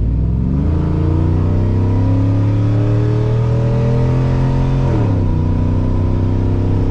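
2003 Chevrolet Silverado 2500's 6.0-litre V8, fitted with 1 7/8-inch long-tube headers and a catless rear-exit stainless dual exhaust, under hard acceleration. The exhaust note jumps up at once and climbs steadily, then drops sharply about five seconds in as the transmission upshifts, and holds steady after that.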